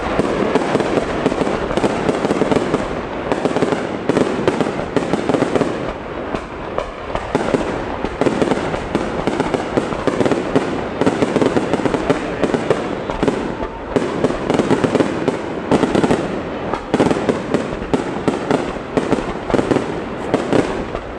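Fireworks display with rapid, continuous crackling and popping and many sharp bangs.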